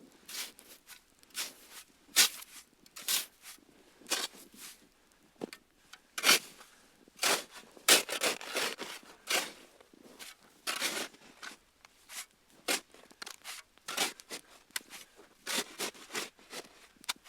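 Wood campfire crackling, with irregular sharp pops and snaps, a few of them much louder than the rest.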